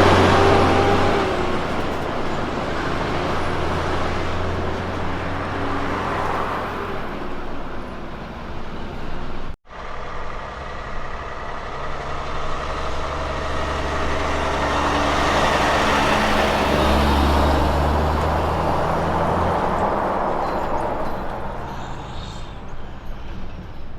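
Kenworth T610 SAR trucks pulling side-tipper triple road trains drive past: a diesel engine drone with tyre and road noise that swells and fades. There are two passes, with an abrupt break about ten seconds in.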